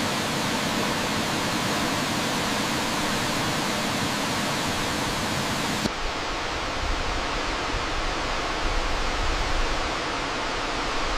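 Steady rushing water of a waterfall. About six seconds in it changes abruptly to a deeper rumble with less hiss.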